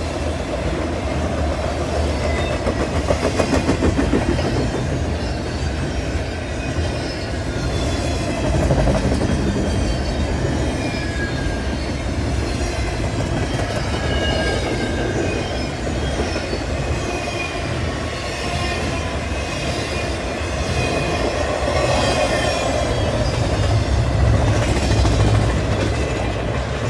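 Freight cars rolling past with a steady rumble and clacking of wheels on the rails, and faint wheel squeal coming and going.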